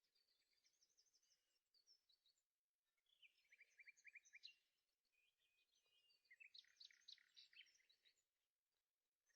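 Faint birdsong: several bursts of quick, high chirps and short trills, one after another with brief gaps.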